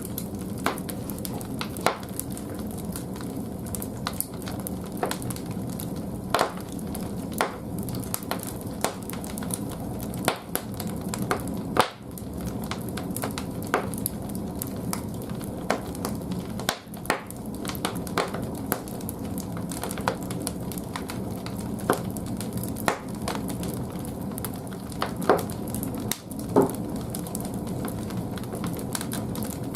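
Firewood burning in the firebox of a wood-fired bathhouse boiler: a steady low rumble with frequent, irregular sharp crackles and pops from the burning wood.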